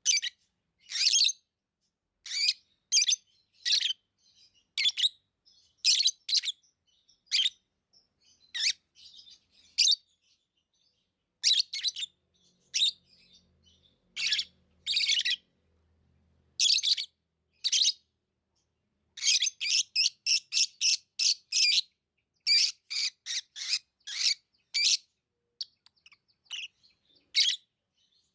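Pet lovebirds chirping: short, shrill, high-pitched calls, some single and some in quick runs of several, with short pauses between.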